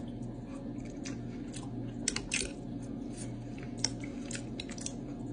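Close-up chewing of a hot mouthful of chicken stew, with faint wet smacks and short puffs of breath to cool the food.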